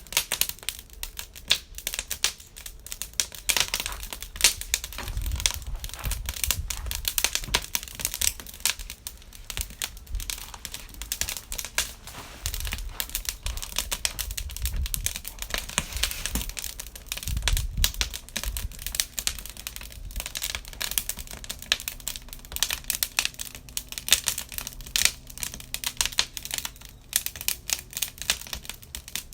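Wood campfire burning and crackling: a steady stream of irregular sharp pops and snaps, with a few low rumbles now and then.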